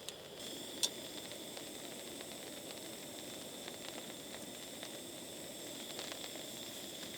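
Food frying over a campfire: a steady sizzling hiss with scattered sharp crackles, one louder snap about a second in.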